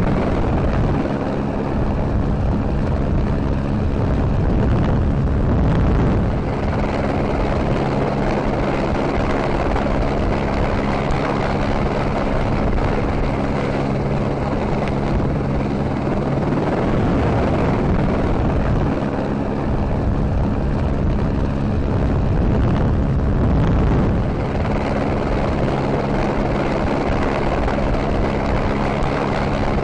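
Helicopter in flight: a steady drone of several even tones, broken three times by a few seconds of louder rushing noise.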